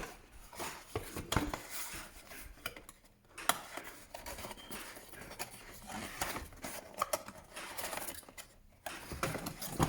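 Robot vacuum accessories and their packaging being handled and unpacked by hand: irregular light plastic clicks, taps and rustling, with a couple of brief pauses.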